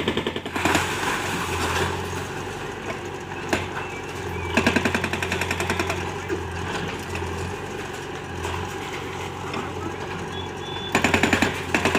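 Heavy diesel engine running with a fast, even clatter that swells louder three times, as if taking load.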